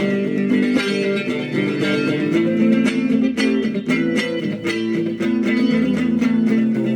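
Instrumental guitar music: plucked notes picked at a steady pace over sustained chords.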